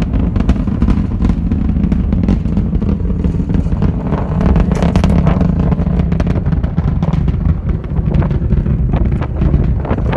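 Falcon 9 rocket's nine first-stage Merlin engines heard from a distance during ascent: a deep, steady rumble with sharp crackling running through it.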